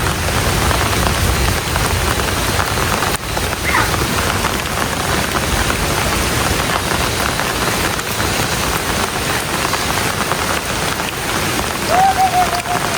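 Heavy rain falling steadily, with a short falling tone about four seconds in and a brief wavering tone near the end.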